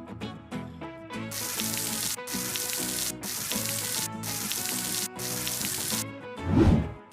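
Cartoon background music with a hissing sound effect that comes in five spurts of under a second each, then a short low whoosh near the end.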